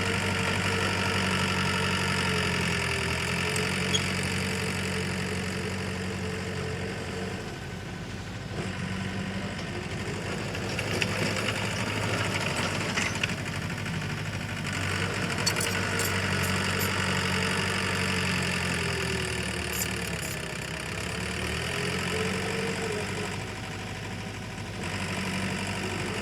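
Diesel engine of heavy earthmoving machinery running steadily, its level easing off briefly twice and coming back up as the machine works. Over it run a wavering whine and a few sharp metallic clicks.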